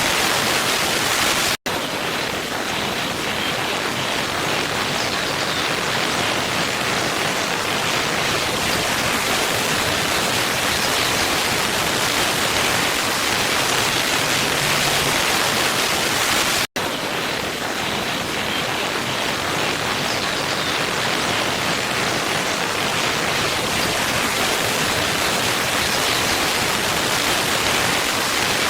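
Waterfall: a steady rush of falling water. It drops out for an instant twice, about fifteen seconds apart.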